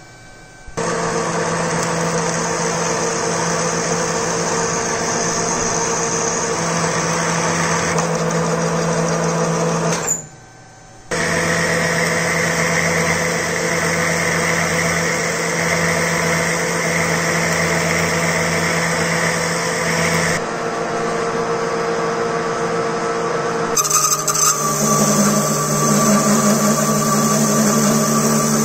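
Electric motor of a homemade lathe running steadily. It starts about a second in, stops briefly around ten seconds in, then starts again, and its tone shifts twice in the second half.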